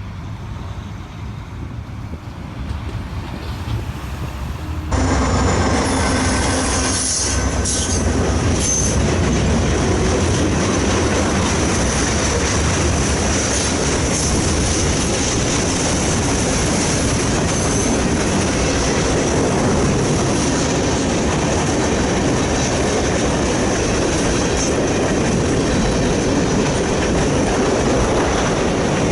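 Freight train rolling past at close range: steady rumble of wheels on rail with a high, sustained wheel squeal and clickety-clack over the rail joints. For the first few seconds there is a quieter, building rumble under wind noise; then it jumps abruptly to the full passing noise.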